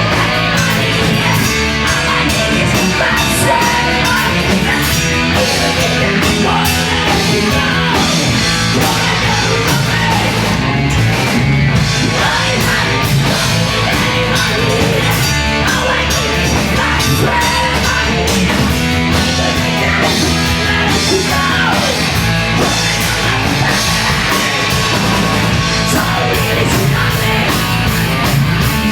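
Live heavy post-hardcore band playing loud: distorted guitars, bass and driving drums without a break, with shouted or screamed vocals.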